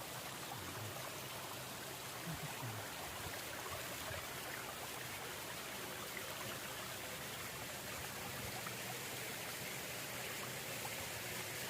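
Steady rushing of a small stream-fed waterfall spilling across a wide, flat rock slab into a shallow pool.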